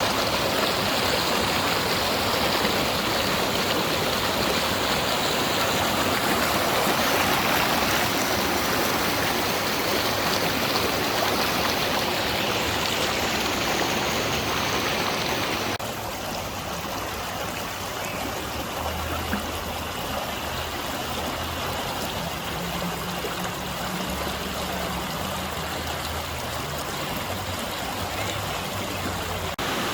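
Creek water rushing steadily over rocks in rapids. About halfway through it changes abruptly to a quieter, duller rush, with a faint low hum coming and going after that.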